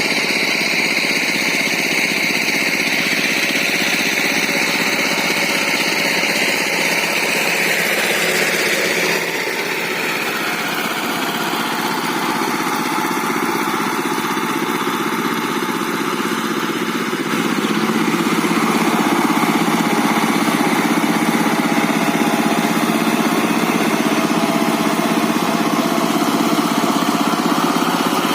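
Diesel engine of a Thai-style walking tractor running a rotary tiller, a steady chugging that changes note about a third of the way in and grows louder past the middle.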